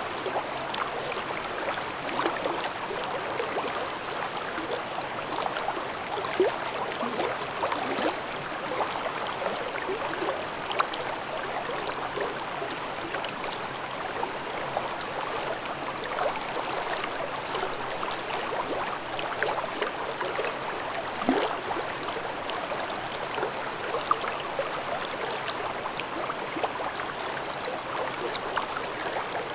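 Mountain stream babbling steadily over rocks, with constant rushing water and small irregular splashes and gurgles.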